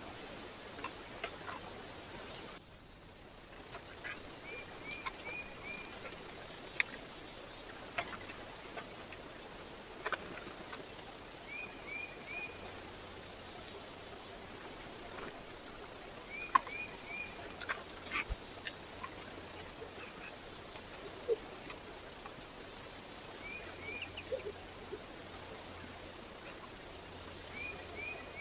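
Small bird calling at a feeder in short runs of three or four quick, high chirps every few seconds, with scattered sharp taps over a steady hiss.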